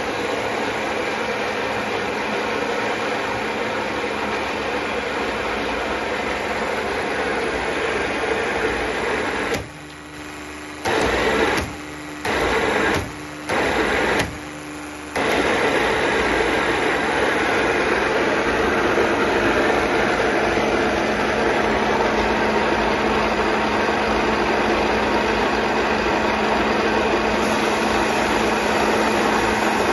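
A Speck NP16/15-210 high-pressure plunger pump driven by a 5.5 kW electric motor, running with a steady hum. About ten seconds in the sound drops and surges three times in quick succession, then settles back into a steady run, a little louder than before.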